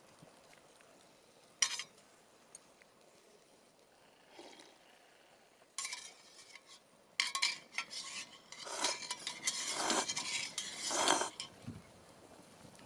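Utensils clinking and scraping against a metal mess tin, with a sharp click early and a run of clattering and scraping in the second half.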